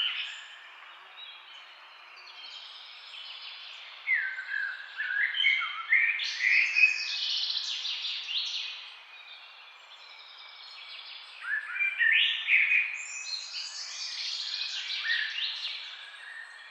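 Several songbirds chirping and singing in quick, overlapping phrases, in two busier bouts, one about four seconds in and another about twelve seconds in, over faint steady background hiss.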